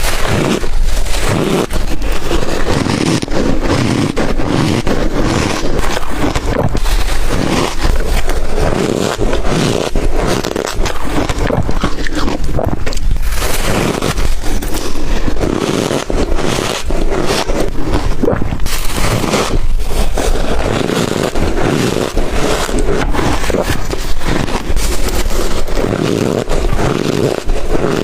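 Close-miked crunching of ice dusted with matcha and milk powder, bitten and chewed without pause in dense, loud crackles.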